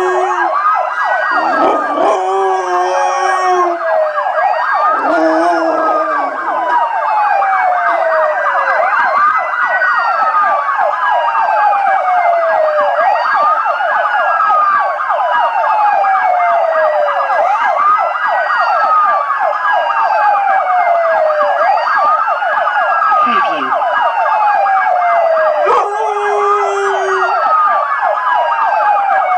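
An emergency-vehicle siren wailing, its pitch rising quickly and falling slowly about every four seconds, while a pitbull howls along with it in several long held howls: at the start, around two and five seconds in, and again near the end.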